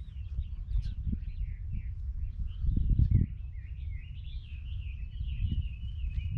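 Small birds chirping and warbling over a low rumble of wind noise on the microphone; about four seconds in, one bird starts a continuous warbling song.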